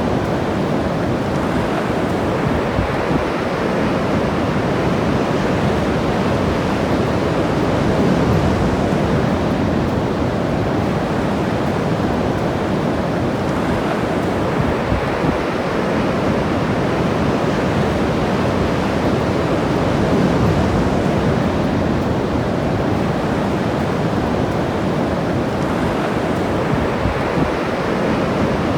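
Ocean surf washing continuously on the shore, swelling louder every several seconds as waves break, with wind buffeting the microphone.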